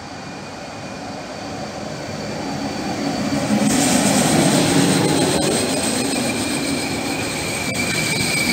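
Trenitalia Rock (ETR 521) double-deck electric multiple unit approaching and running past close by, growing louder until about four seconds in, then a steady rush of wheels on rail. Two thin high steady whining tones run through it, and a few sharp clicks of wheels over rail joints come in the second half.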